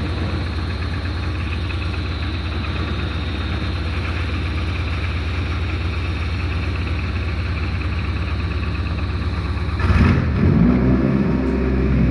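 Mitsubishi 4B12 inline-four engine running on a test stand, a steady drone. About ten seconds in it changes suddenly, getting louder and uneven in pitch as it revs.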